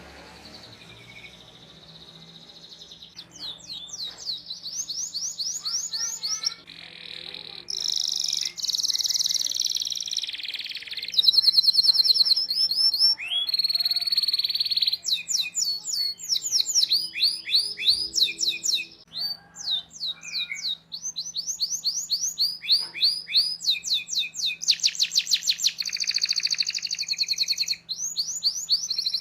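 Domestic canary singing a long, fast song starting about three seconds in: phrase after phrase of rapidly repeated high chirps and rolling trills, with short breaks between phrases.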